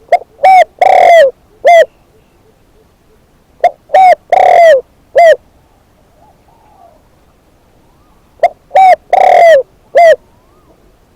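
Spotted dove, a decoy bird, cooing: three phrases a few seconds apart, each of four notes, two short, one long and a short final one.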